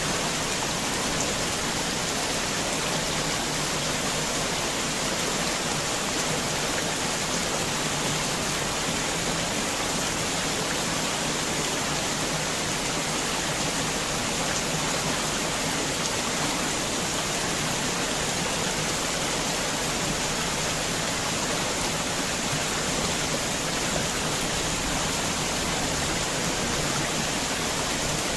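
Heavy rain falling steadily, an even hiss of rainfall without thunder or separate drops standing out.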